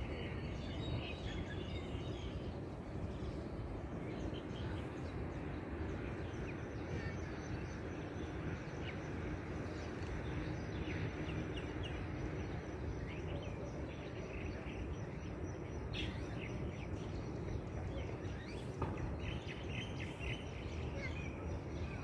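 Small birds chirping with short, repeated calls over a steady low background rumble. A thin, steady high tone joins about a quarter of the way in and holds.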